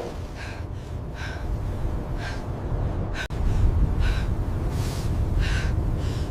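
A person's heavy, gasping breaths, about one a second, over a steady low rumble: laboured breathing from exhaustion and cold. A sharp click with a momentary dropout cuts in a little after halfway.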